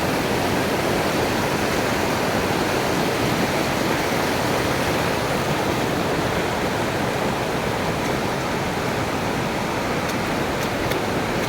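Waterfall and rushing stream water: a steady, even roar of falling water.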